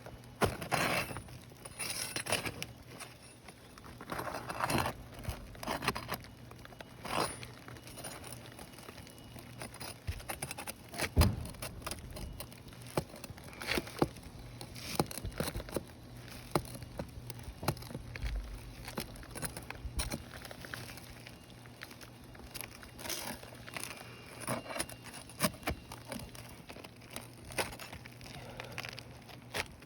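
Steel flat bar prying and scraping under old asphalt roof shingles, with irregular clicks, scrapes and crackling as the brittle, 22-year-old shingles crack and tear.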